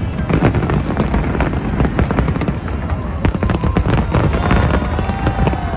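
A fireworks display: a dense run of rapid bangs and crackles, with music playing underneath.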